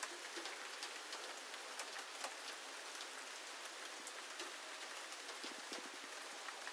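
Steady rain falling, an even hiss dotted with scattered sharp ticks.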